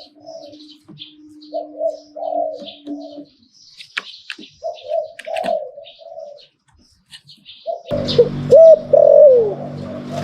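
Spotted dove cooing in repeated phrases, with small birds chirping faintly in the background. About eight seconds in, the coos become louder over a steady low hum.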